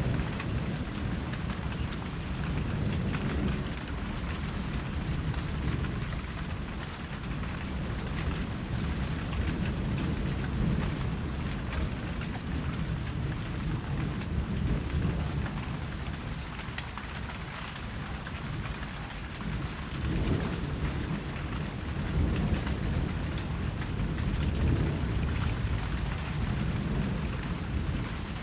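Steady rain falling, an even hiss, with a low rumble underneath that swells and fades several times.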